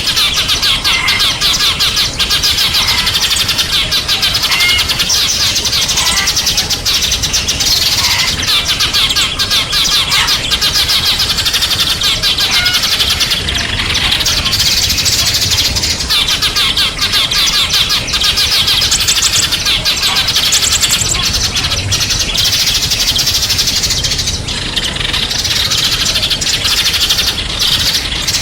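Many small songbirds chirping and twittering at once, a dense, continuous high-pitched chatter of rapid overlapping calls.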